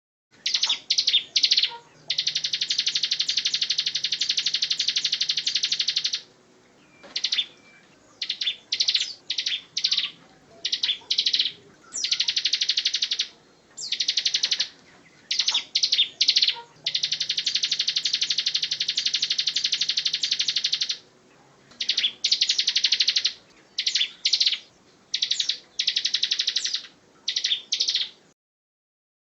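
Bar-winged prinia singing: high-pitched phrases of short quick notes alternate with long, very rapid trills, two of which last about four seconds each.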